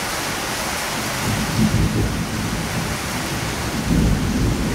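Thunder rumbling twice over a steady hiss of heavy rain during a severe thunderstorm.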